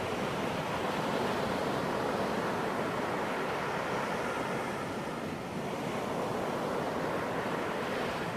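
Ocean surf washing onto a beach as a steady rush of noise. It eases slightly about two-thirds of the way through, then swells again.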